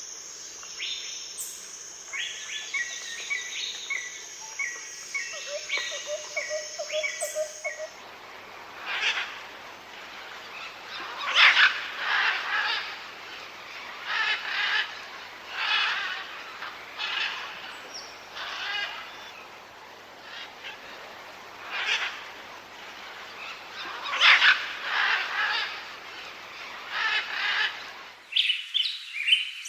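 Wild birds calling in three separate recordings. The first has a steady high insect hum under series of short repeated notes. The middle has harsh calls repeated every second or two. Quick chirping comes near the end.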